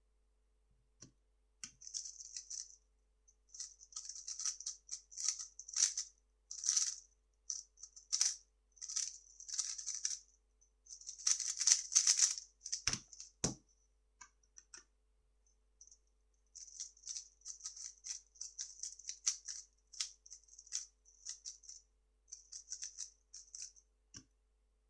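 A 3x3 speedcube being turned fast, its plastic layers clicking and rattling in dense flurries with short pauses between turn sequences. There is one long spell of turning, a brief lull, then another. A few low knocks come along the way: a couple together about thirteen seconds in, and one near the end.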